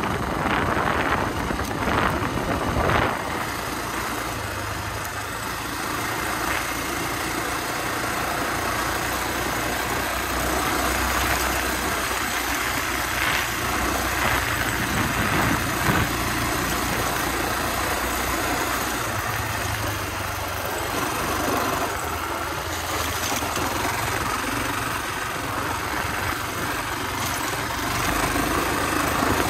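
Honda XR250R's air-cooled single-cylinder four-stroke engine running at a fairly steady pace while the dirt bike is ridden along a forest track. Wind buffets the microphone heavily for the first few seconds.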